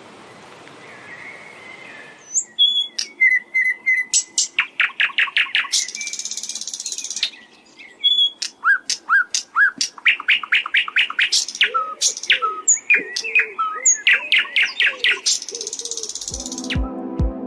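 Common nightingale singing: fast runs of repeated notes, clear whistles and two harsh, buzzy rattles, starting about two seconds in. Music with a steady beat comes in about a second before the end.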